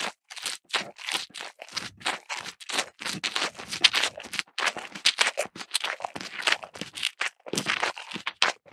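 Rapid, irregular crunching, like a cow munching fresh green grass stalks, several crunches a second.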